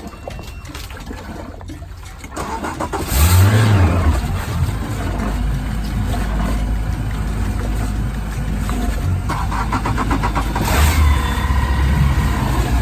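Boat engine running steadily, revving up about three seconds in and again about eleven seconds in.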